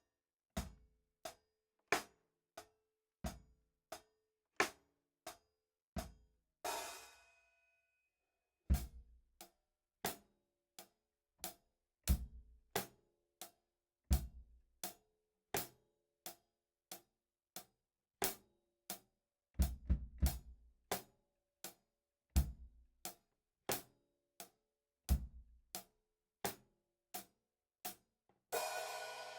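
Drum kit played in a slow, sparse pattern: short separate hits about every two thirds of a second, with deeper kick-drum hits now and then. A cymbal crash rings briefly about seven seconds in, and another near the end.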